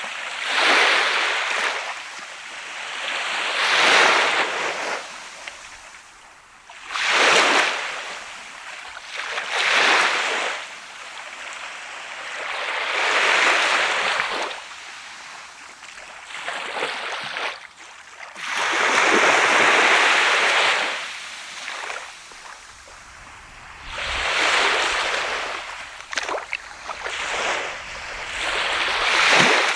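Sea surf: waves breaking and washing up the beach one after another, each a rush that swells and fades over a second or two, about every three to five seconds.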